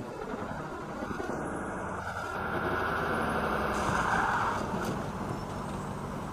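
Motor vehicle engine and road noise running steadily, swelling to its loudest around four seconds in and then easing.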